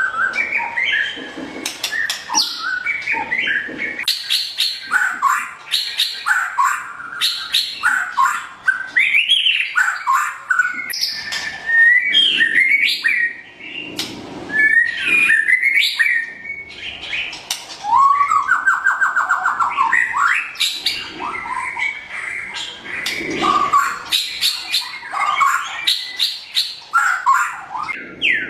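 White-rumped shama (murai batu, pied 'blorok' form) singing without pause: a fast, varied stream of whistles, chatters and sharp clicks, with a longer rolling trill about two-thirds of the way through.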